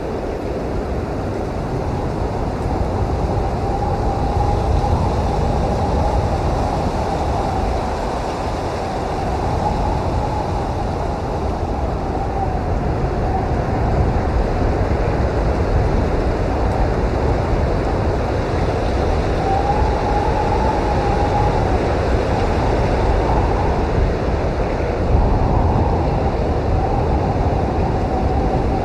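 Blizzard wind blowing hard: a dense, steady rush, heaviest in the low end, with a faint whistling tone that wavers up and down and swells now and then.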